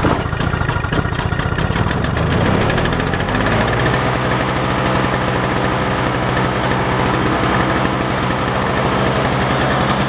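Toro CCR snowblower's two-stroke engine catching and running, uneven for the first few seconds and then settling into a steady run off the choke. Its carburetor has just been cleaned, and it no longer stalls.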